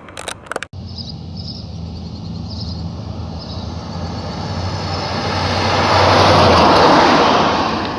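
The 1975 Cadillac Coupe DeVille's 500 cu in V8 running as the car drives. A steady low engine hum comes with road noise that swells to its loudest about six to seven seconds in, then eases. A few sharp clicks are heard at the very start.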